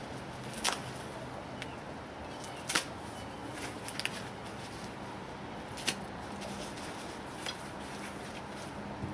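Packaging being cut open and handled: scattered sharp clicks and rustles, four or five of them spread out over a steady low hiss.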